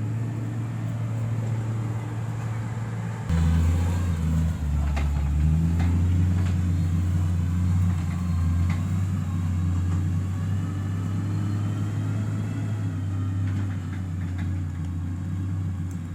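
Heavy road-construction machine's engine running steadily with a deep drone that grows louder about three seconds in, as if under more load or revs. A faint whine rides over it, and there are a few short knocks.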